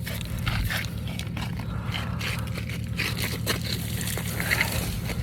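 Irregular crunching and scraping of ice-coated material, over the steady low hum of a Porsche Cayenne's engine idling.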